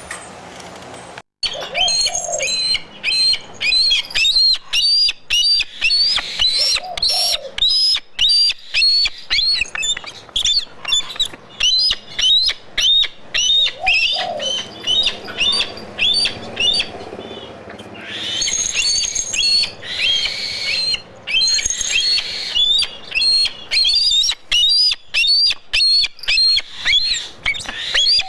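Birds chirping and tweeting in a dense, continuous stream of short high chirps with sharp clicks between them. A few lower, arching calls come through about two, seven and fourteen seconds in.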